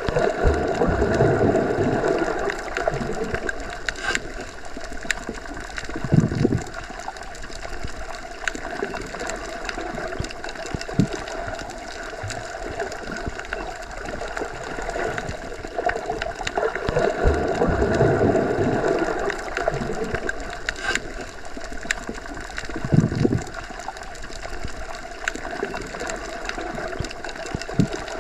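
Underwater ambience as heard by a submerged microphone: a steady muffled rush with a hum of several steady tones. It swells twice, near the start and again a little past halfway, with a couple of dull low thumps and a few faint clicks.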